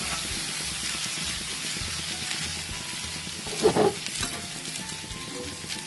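Stuffed baby brinjals sizzling as they fry in oil in a pan, stirred and turned with a metal slotted spatula. A brief louder knock of the spatula against the pan comes a little past halfway.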